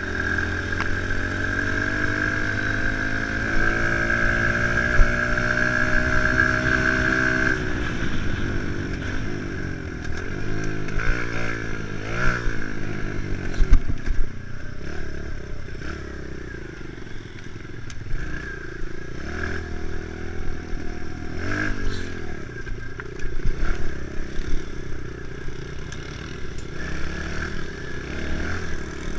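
Kawasaki KLX110 pit bike's small single-cylinder four-stroke engine being ridden hard. It rises steadily in pitch for the first seven seconds or so, then revs up and down repeatedly, with scattered knocks and rattles.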